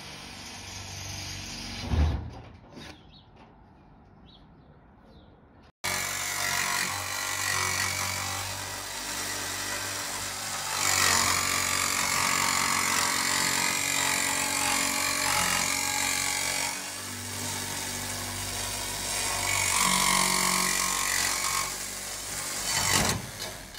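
A knock about two seconds in, then from about six seconds a power saw cutting through the van's sheet-metal roof, running on in long, loud stretches that swell and dip and stop just before the end.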